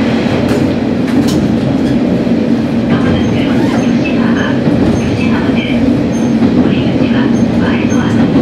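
Diesel railcar running along the track, heard from the cab: a steady, loud engine and wheel rumble, with faint short higher squeaks coming in from about three seconds in.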